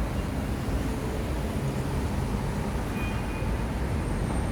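Steady rumble of street traffic, vehicles running past.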